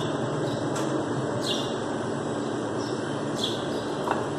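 Small birds chirping, short high calls that drop in pitch, about one a second, over a steady low background hum.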